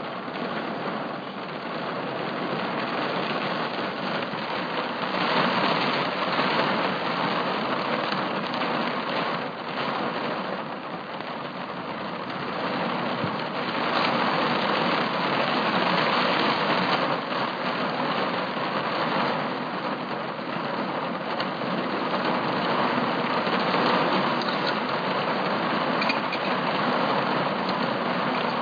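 Steady rain falling, a dense hiss of drops that swells and eases in waves.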